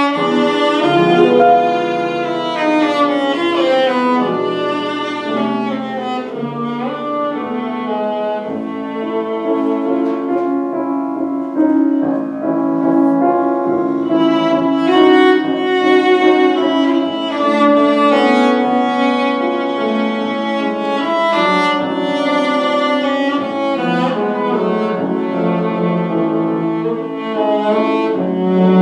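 Live classical music: a bowed string instrument, most likely violin, playing a melodic line over piano accompaniment.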